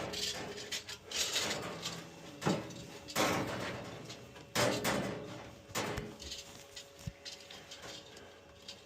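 Tools and boiler parts being handled during reassembly: rustling and scraping broken by several sharp knocks and clatters, the loudest around the middle.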